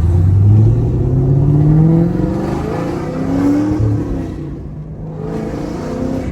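Chevrolet Camaro SS 1LE's naturally aspirated V8 accelerating through the gears of its manual gearbox: the engine note rises, drops at an upshift about two seconds in, rises again and drops once more near four seconds, then settles into a lower, steadier cruise.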